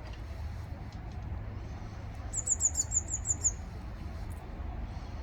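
Eurasian blue tit singing a short trill of about eight quick, very high notes, each sliding slightly down, lasting about a second and starting a couple of seconds in. A low, steady rumble runs underneath.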